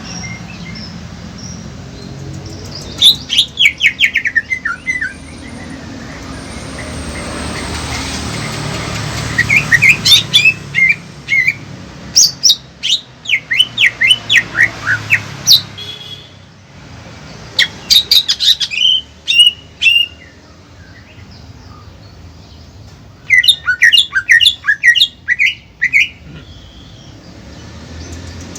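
Songbirds singing in loud bursts of rapid, sharp, falling notes, each burst lasting a few seconds and repeated with pauses between, as other birds join in. A low background rumble runs underneath and swells about eight seconds in.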